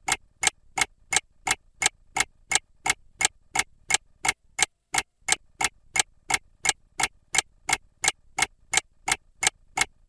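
Mechanical clock ticking steadily, sharp even clicks at about three a second.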